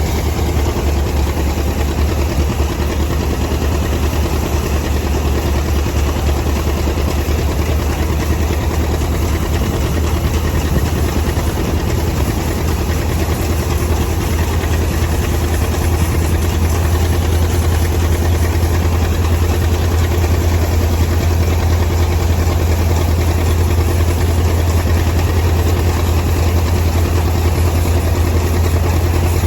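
Tractor engine running at a steady speed, a deep even drone with no change in pitch.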